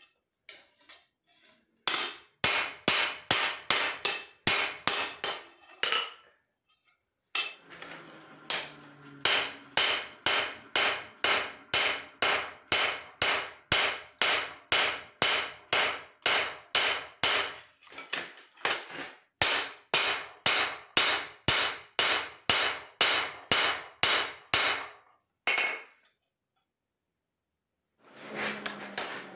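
Hand hammer striking leaf-spring steel on an anvil during forging, about three ringing blows a second. The blows come in long runs with a few short pauses.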